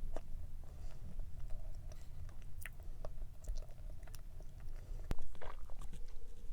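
A person chewing and biting cake close to the microphone: soft wet mouth sounds and small clicks, with one sharp click about five seconds in.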